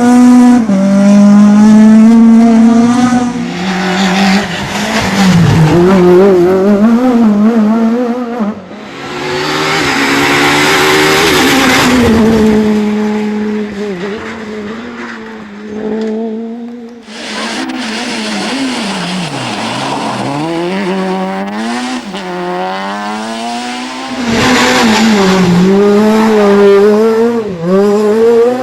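Peugeot 206 S1600 rally cars' high-revving four-cylinder engines, revving hard and dropping off through gear changes and lifts as the cars go past, in several separate passes. About a third of the way in, a broad rushing noise rises over the engine for a few seconds.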